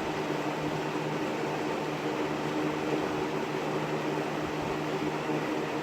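20-inch Kmart (Lakewood) box fan, model K223, running steadily: a constant low motor hum under the even rush of air from the blades.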